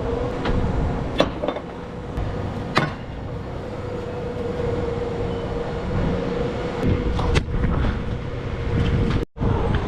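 Steady mechanical hum over a noisy background, with a few sharp metallic clanks from straps and buckles being thrown and fastened over a flatbed trailer's load; the sound cuts out abruptly near the end.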